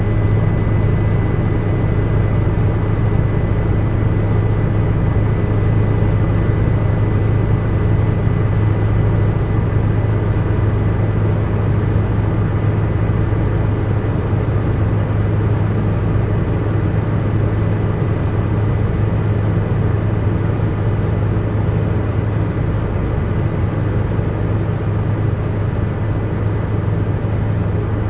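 Steady drone of a helicopter heard from inside the cabin, engine and rotor noise with a strong low hum and a faint thin high whine that fades over the stretch.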